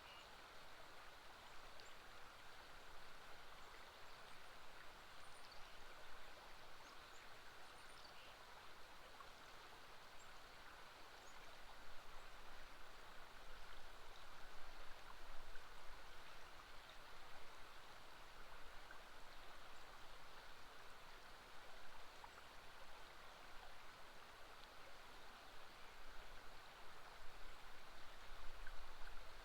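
River water flowing in a steady, even rush, with a few faint high chirps in the first several seconds.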